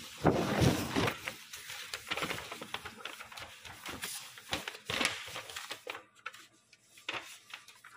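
Irregular light clicks and rustling, denser and louder in the first second and again about four to five seconds in.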